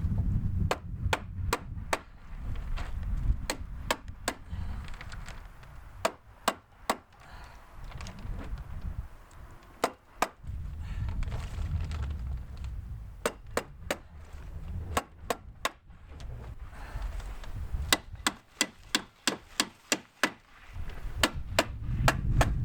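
A stapler driving staples through plastic vapour barrier into wood: sharp strikes in runs of several at a time, up to about four a second, with pauses between runs. Wind gusts rumble on the microphone underneath.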